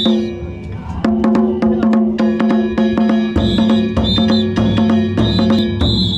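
Danjiri festival narimono: hand-struck gongs ringing in a fast, steady rhythm over taiko drums. The playing thins briefly at the start, picks up again about a second in, and deep drum beats join past the middle.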